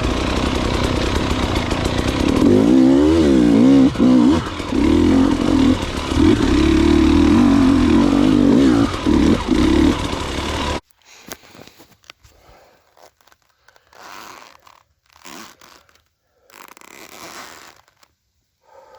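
Dirt bike engine revving, its pitch swinging quickly up and down for a couple of seconds, then held high and steady. It cuts off abruptly about eleven seconds in, leaving only a few faint scuffs.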